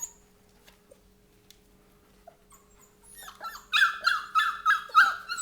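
Old English Sheepdog puppy whining in a quick run of short, high, falling yelps, about two or three a second, starting about three seconds in after a near-quiet stretch with a few faint ticks.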